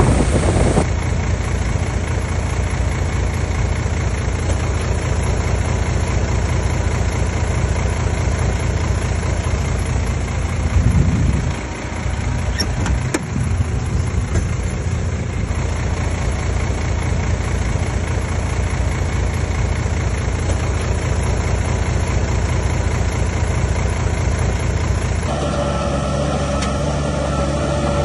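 Heavy earthmoving machinery's diesel engine running steadily, with a brief swell about a third of the way through. Near the end the sound changes abruptly to another engine with a steadier, more pitched hum.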